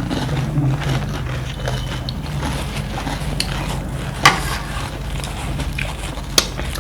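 Someone eating panipuri: quiet chewing with a few sharp crisp snaps, the loudest about four seconds in, over a steady low hum.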